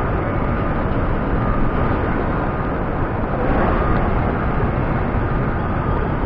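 Steady running noise of a moving tram, with a faint high whine that comes and goes.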